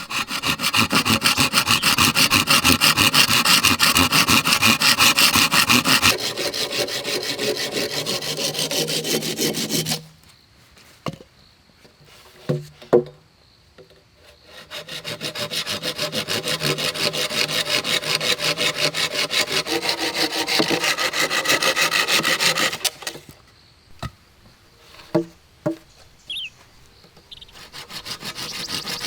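Hand saw cutting through wood in long spells of quick, even strokes. The sawing stops twice for several seconds, with a few light knocks in each pause, and starts again near the end.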